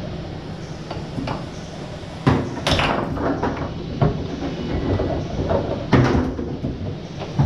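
Tornado foosball table in play: the ball clacking off the foosmen and the table walls, with rods knocking in their bearings. Several sharp hits stand out, the loudest about two and a half and six seconds in.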